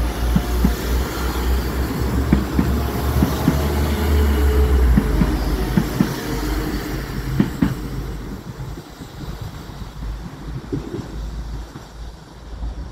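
Diesel multiple-unit passenger train running past at close range, a low engine and wheel rumble with sharp clicks of the wheels over the rail joints. The sound fades from about halfway through as the train pulls away.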